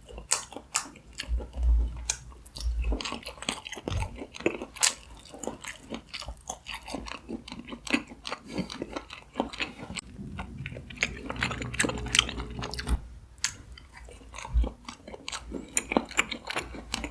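Someone chewing a mouthful of steamed mantis shrimp meat and roe, with many short wet clicks and mouth sounds throughout and a few low thumps.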